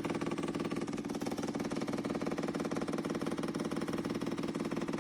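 Hoover Steam Complete steam mop running: a steady buzzing hum with a fast, even pulsing flutter.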